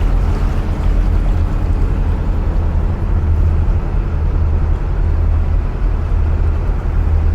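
Narrowboat diesel engine running steadily at cruising speed inside a canal tunnel: a loud, even low throb.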